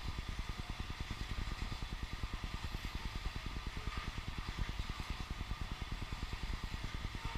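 Oil train's tank cars rolling past, with a fast, steady rhythmic clatter from the wheels on the rails.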